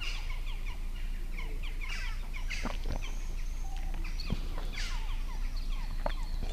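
Birds chirping and calling: a dense run of short falling chirps with a few longer whistled notes, over a steady low rumble.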